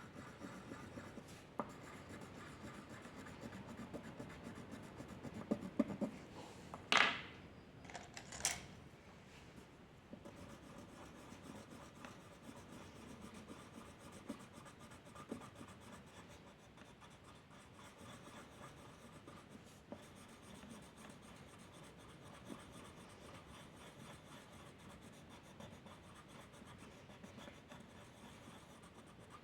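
A drawing tool scratching and rubbing on paper in steady small strokes, with two louder quick swipes about seven and eight and a half seconds in.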